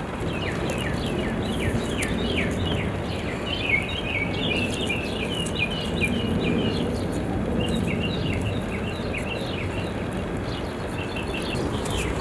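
Small birds chirping in quick runs of short, falling notes, thickest in the middle, over a steady low outdoor background noise. One small tap sounds about four seconds in.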